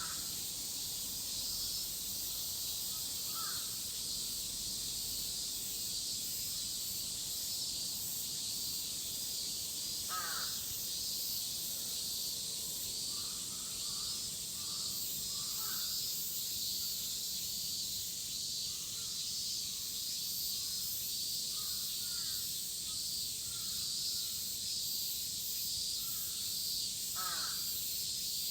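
Cicadas shrilling in a dense, steady chorus, a high, finely pulsing drone. Crows caw now and then over it, most clearly right at the start, about ten seconds in and near the end.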